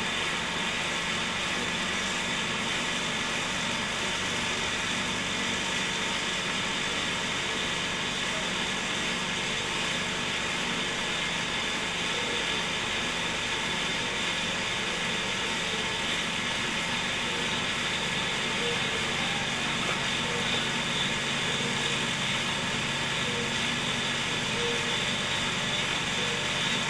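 Cotton candy machine's DC-motor spinner head running steadily with an even whirring hum.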